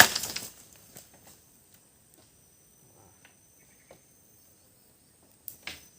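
Forest insects calling with a steady high tone, after a brief knock and rustle at the start as the wooden shelter poles are handled, and a few faint clicks of the work after it.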